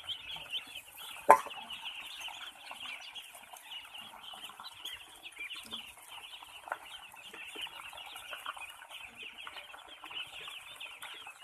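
A huge flock of ducklings peeping all at once: a dense, unbroken chatter of many high chirps overlapping. One sharp knock stands out about a second in.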